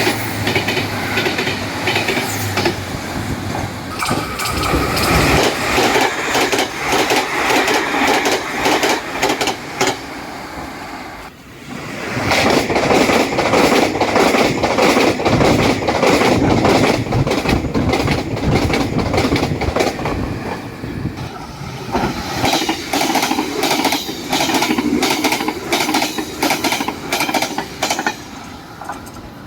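Taiwan Railway trains passing at high speed, their wheels clattering rhythmically over fishplate-jointed rail joints in rapid clickety-clack. The sound dips briefly about a third of the way in, then a train's clatter swells again and fades toward the end.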